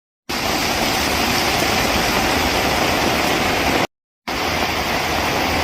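Heavy rain pouring down in a steady, even hiss, broken by a moment of silence about four seconds in before it resumes.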